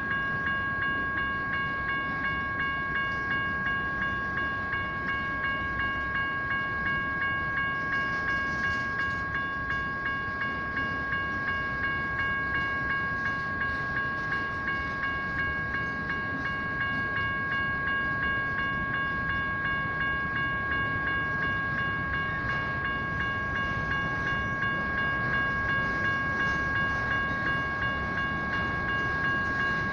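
General Signals Type 1 electronic crossing bells ringing steadily at about two strokes a second over the rumble of a passing train.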